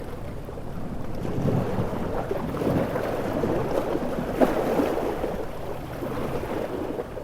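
Storm-driven ocean surf with wind, a wave swelling up and washing through the middle, with one sharp louder hit about four and a half seconds in.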